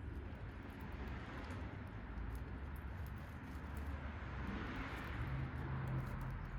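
A road vehicle passing in the background. Its tyre and engine noise swells to a peak about five seconds in, over a steady low rumble.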